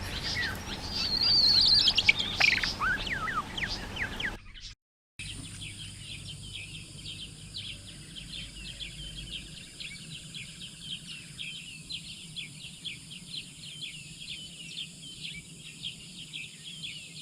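Birds calling. A loud burst of varied, falling calls lasts about four seconds, then after a short break a steady, rapid twittering of many short high chirps carries on.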